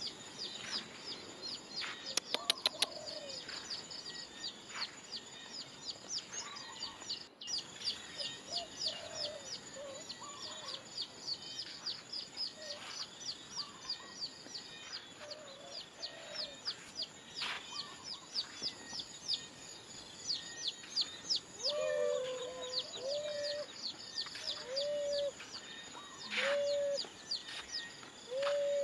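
Chickens: quick high chirps repeat throughout, and in the last several seconds short low clucks come about once a second. A brief run of clicks sounds about two seconds in.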